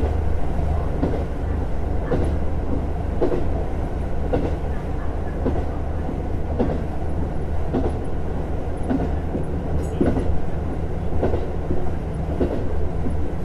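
JR Hokkaido KiHa 150 diesel railcar running at steady speed: a steady low drone and rumble, with the wheels clicking over rail joints about once a second.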